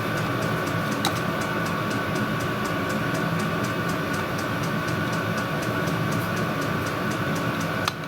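A machine running steadily with a constant hum and a fast, even ticking, about five or six ticks a second.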